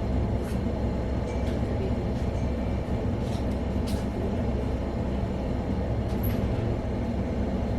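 Steady low mechanical hum heard inside a stationary sleeper-train cabin, with brief faint hisses now and then.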